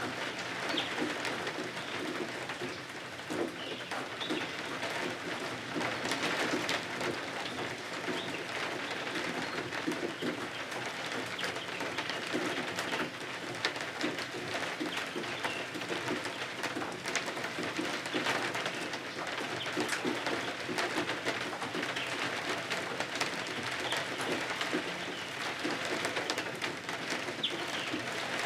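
Steady rain pattering, with many scattered sharp crackles and ticks through it.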